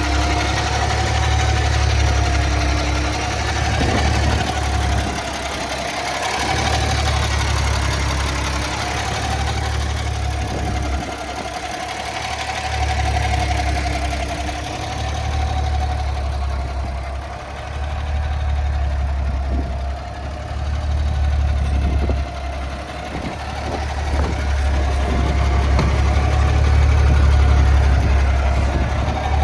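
Natural-gas (CNG) engine of a Kenworth T800 semi truck idling, its low rumble swelling and easing every few seconds, with a thin wavering whine above it.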